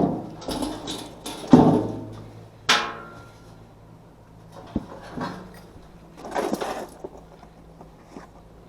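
A handful of knocks and clanks from things being handled, one of them a sharp clank with a brief metallic ring, followed by a rustle, over a steady low hum.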